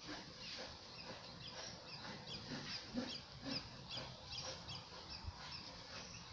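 Birds chirping: short, high, quick chirps repeated about three a second over a faint outdoor hiss.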